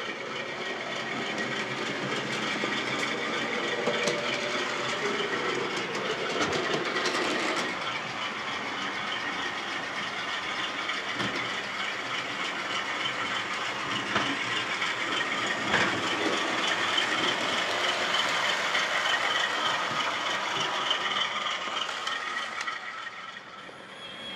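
OO gauge model train running on the layout's track: a steady whirring from the running train, with faint clicking from the wheels on the rails.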